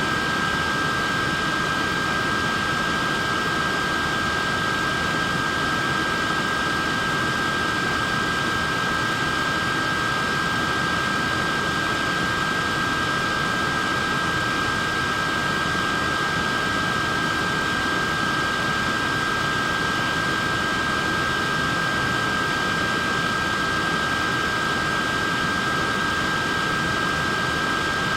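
Neck fan running steadily: an even rush of air with a high, constant motor whine of two close tones.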